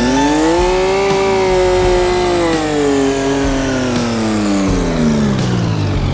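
A vehicle engine revs up hard just before this moment, holds at high revs for a couple of seconds, then slowly winds back down over the next few seconds.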